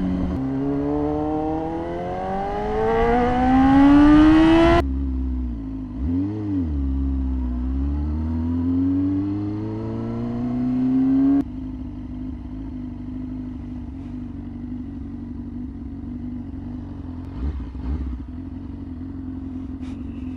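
Yamaha R6 inline-four engine accelerating hard, its revs climbing steeply for about five seconds before falling off sharply. The revs then dip, recover and climb again until the throttle shuts off about eleven seconds in. After that the engine idles steadily.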